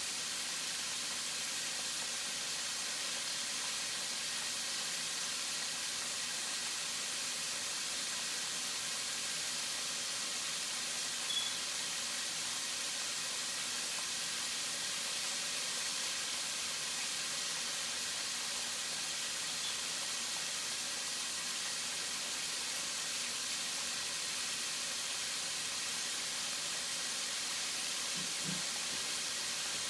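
Food frying in hot fat in a pan, a steady, even sizzle.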